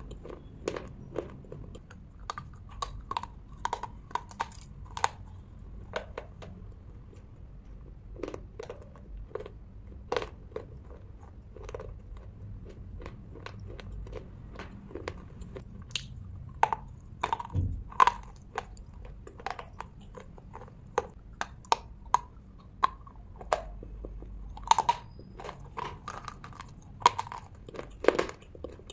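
Close-up chewing of slate pencil sticks: a steady run of sharp, irregular crunches and clicks as the brittle pieces break between the teeth.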